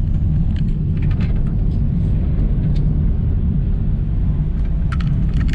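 Steady low road and engine rumble heard from inside a moving car's cabin, with a few faint short ticks scattered through it.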